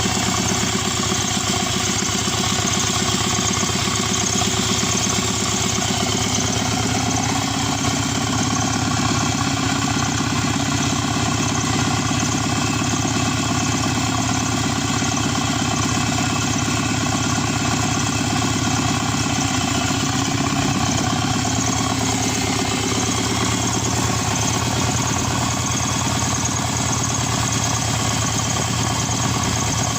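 Subaru EJ255 2.5-litre turbocharged flat-four engine running at a steady idle.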